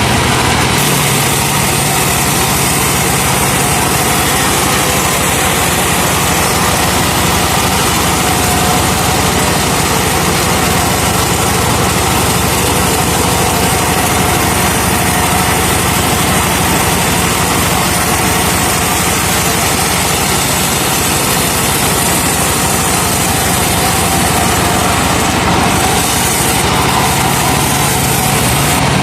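Truck-mounted sawmill running, its truck engine driving the saw in a steady, loud machine noise with no let-up.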